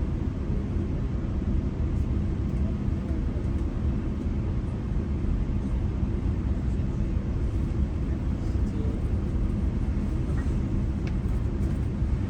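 GO Transit bilevel passenger train running along the track, heard from inside the coach as a steady low rumble.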